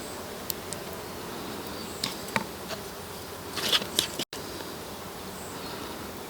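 A flying insect buzzing steadily, with a few light clicks and taps over it and a short cluster of taps a little past halfway.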